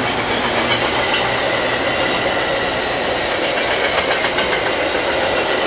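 Metra bilevel commuter train passing close by: a steady, loud rush and rumble of the passenger cars, with the wheels clicking over rail joints.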